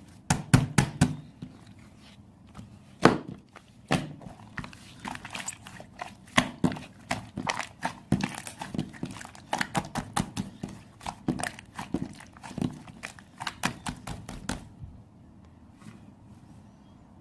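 Slime being worked by hand, making a rapid, irregular series of sharp clicks and pops that stops suddenly about fifteen seconds in.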